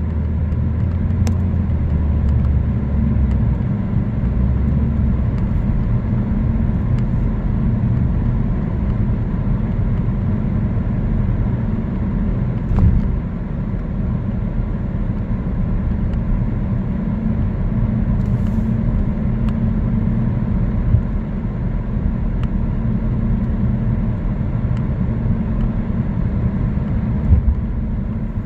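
A car driving along a road: steady low rumble of tyres and engine, with a brief thump about halfway through and another near the end.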